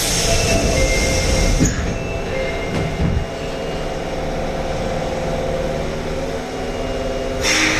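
Osaka Metro Tanimachi Line subway train at departure: the doors close with a burst of air hiss lasting about a second and a half, then the train pulls away with a steady low rumble of motors and wheels. A second short hiss comes near the end.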